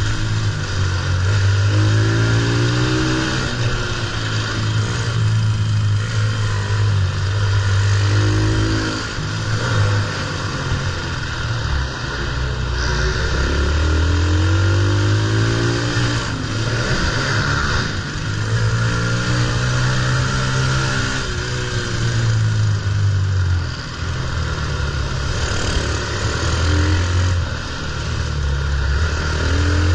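Pit bike engine being ridden hard, revving up and easing off again and again, its pitch climbing and falling every few seconds.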